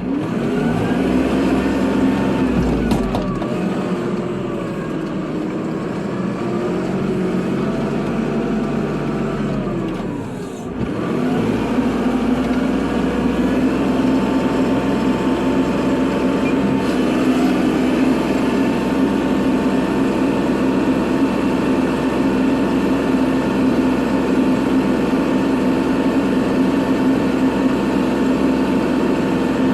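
Kubota tractor's diesel engine running under load while plowing snow. Its pitch rises and falls for the first several seconds, drops off briefly about ten seconds in, then settles to a steady, even running.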